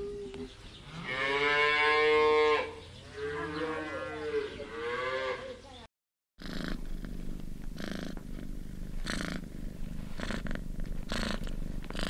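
Cattle mooing: two long moos, the first and loudest about a second in, the second a little after three seconds. After a brief silence, a cat purring steadily with a regular pulse.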